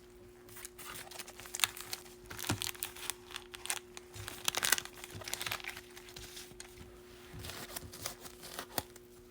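A foil baseball card pack wrapper crinkling and tearing as it is opened, an irregular run of crisp crackles that is busiest in the middle.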